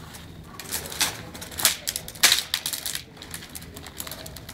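Irregular crackling and popping of a bonfire burning lemon-tree branches, with a few louder snaps.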